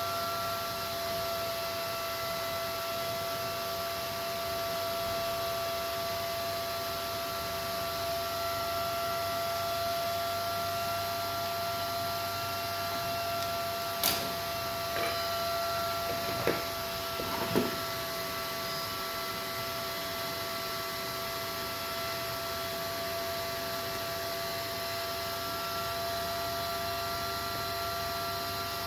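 Steady electrical hum with several high tones held over a hiss, and a few light clicks a little past halfway.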